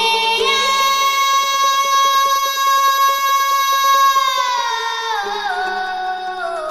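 Haicai-tune Yunnan folk singing: a very high voice holds one long note for about four seconds, then slides down through several steps.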